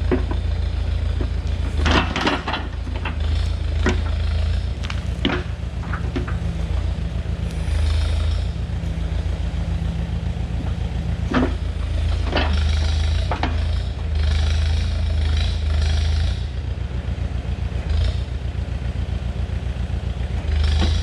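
Tractor backhoe's engine running steadily, its load swelling and easing, with scattered sharp knocks and clanks over it.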